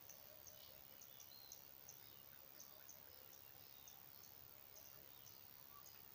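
Faint early-morning garden ambience: a short high chirp repeats about two to three times a second, with a few other faint bird calls over a quiet rural background.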